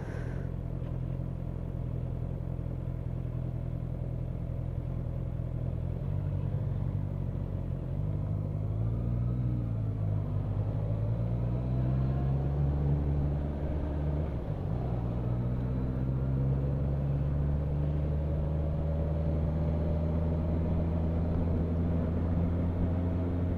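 Motorcycle engine running while riding on the road, its pitch dipping and rising near the middle, with a short break about fourteen seconds in, then climbing slowly toward the end, over a steady low road rumble.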